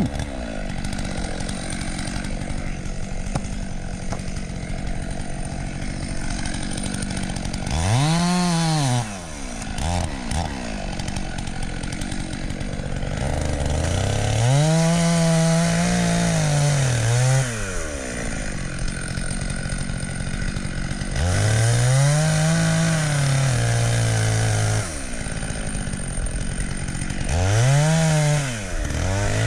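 Two-stroke chainsaw running throughout, its engine note rising and falling four times as it is revved up and let back down.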